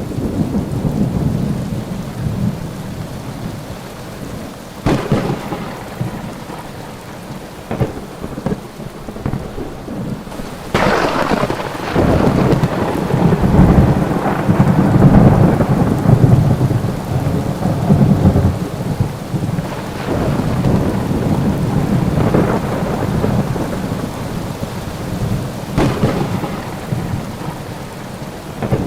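Thunderstorm: rain falling steadily under repeated thunder. Sharp cracks come about five seconds in and near the end. The loudest clap, about eleven seconds in, rolls into several seconds of deep rumbling.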